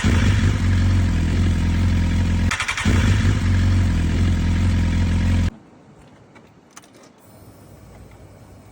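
Motorcycle engine running loudly and steadily, faltering briefly about two and a half seconds in with a crackly burst before picking up again. It then cuts off suddenly about five and a half seconds in, leaving only faint background noise.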